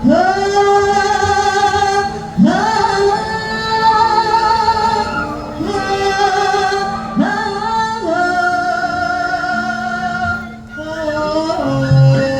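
A Javanese sinden sings in a high voice over gamelan: long held notes, each phrase opening with an upward scoop in pitch, over steady low instrument tones. Near the end the gamelan instruments come in more strongly.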